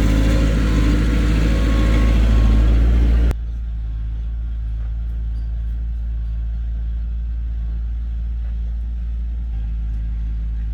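Heavy construction-machine diesel engine running loud and steady, then cut off abruptly about three seconds in, leaving a quieter, steady low engine hum.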